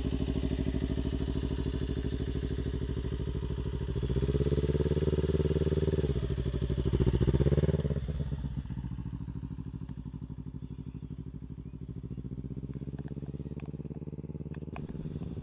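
Kawasaki Ninja 300's parallel-twin engine running. Its revs rise about four seconds in and climb again until about eight seconds in, then drop back to a lower, quieter steady note.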